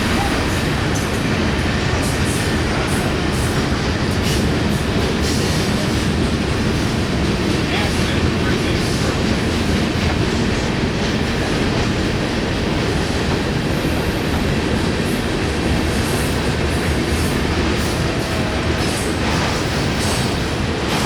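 Freight train rolling past: a steady, loud rumble of wheels on rail, with a few faint clicks.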